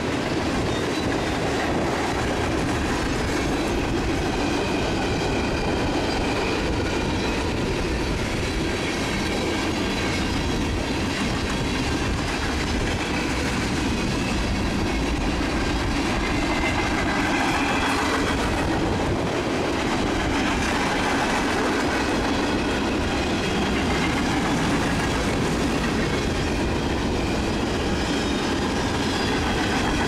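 CSX freight train cars rolling past: a steady rumble of steel wheels on the rails, with a thin, high wheel squeal that wavers in pitch.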